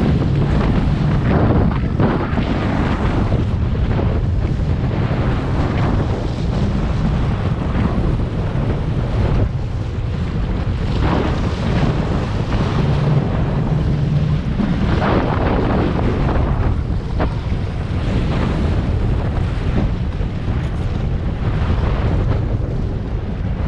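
1999 Sea-Doo XPL personal watercraft's two-stroke engine running under way, a steady low drone under heavy wind buffeting on the microphone, with louder rushes of wind and water every few seconds.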